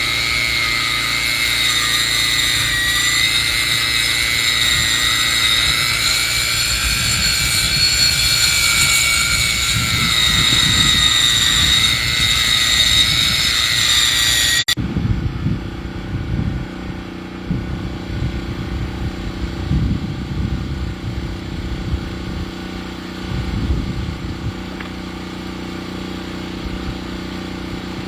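Sawmill cutting a log: engine running under load with a steady high whine from the saw. About halfway through the whine stops abruptly, leaving the engine running lower with uneven pulsing.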